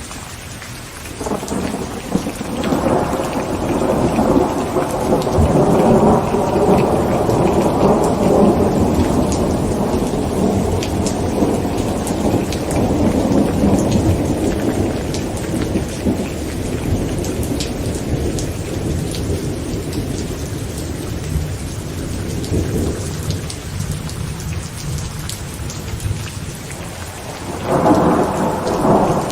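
Heavy rain falling on a tent, with fine drop ticks over a steady hiss, and rolling thunder. A long rumble starts about a second in, swells and dies away over the next fifteen seconds or so, and a second rumble begins near the end.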